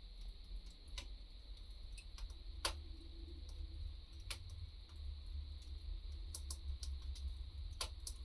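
Wood fire crackling: irregular sharp pops and snaps, a few of them louder than the rest, over a low steady rumble.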